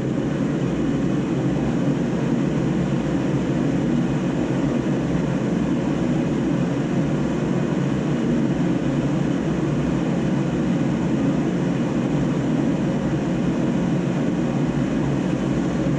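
Steady, even rumbling background noise with no distinct events, of the kind a running fan or air-conditioning unit makes.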